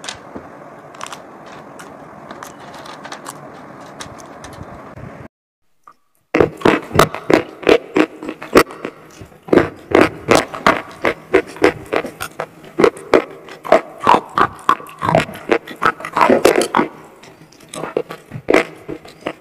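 Slate-pencil crumbles coated in paste being bitten and chewed close to the microphone: dense, sharp, crisp crunching cracks. For about the first five seconds there is only a soft steady scraping, then after a brief cut the crunching starts.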